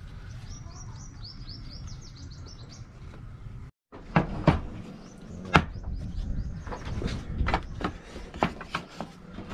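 A small bird chirping rapidly for about two seconds. After a short break about four seconds in, a series of sharp wooden clacks as a stack of thin cut wood pieces is handled and knocked against itself and the workbench.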